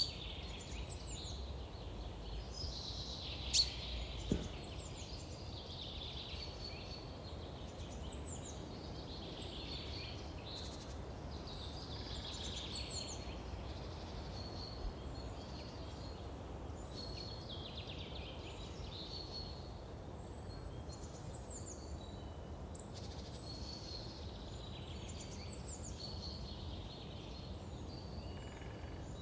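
Woodland birds chirping over and over, short high notes that slide downward, over a steady outdoor hiss. A few sharp clicks from twigs being handled, two near the start and one about three-quarters through.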